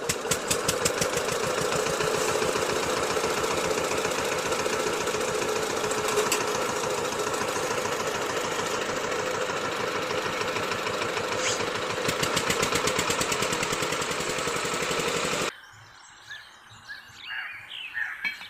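A small motor running with a fast, even rattle, which cuts off suddenly about fifteen seconds in.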